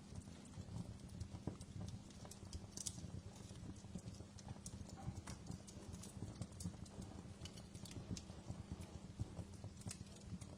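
Wood fire crackling: irregular sharp pops and snaps, a few stronger than the rest, over a steady low rumble.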